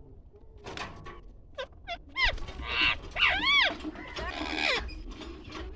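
A bird calling: a run of short chirps, then loud arching whistled calls and harsh screeches.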